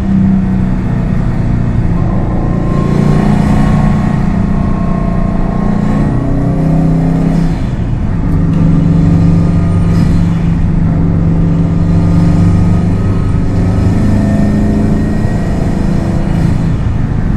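Subaru WRX STI's turbocharged flat-four engine and exhaust pulling through a drive. The revs shift up and down several times over steady road noise.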